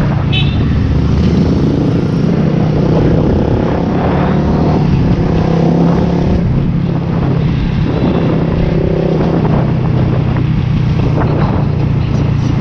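Ducati Scrambler Cafe Racer's air-cooled L-twin engine and exhaust running steadily and loud, with small rises and falls in pitch and a brief dip a little past halfway.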